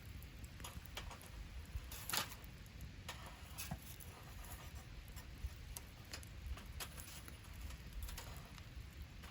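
Wood campfire crackling, with irregular pops and snaps; the loudest snap comes about two seconds in. A low rumble runs underneath.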